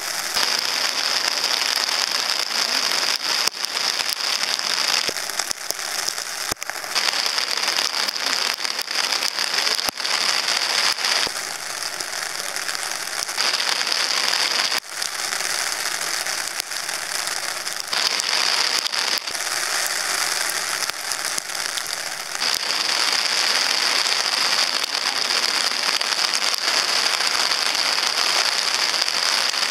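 Heavy typhoon rain falling, a steady hiss with many sharp drop hits close by.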